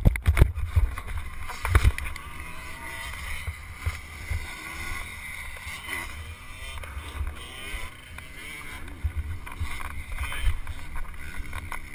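Dirt bike crash: a few heavy thumps in the first two seconds, then a low rumbling noise on the microphone.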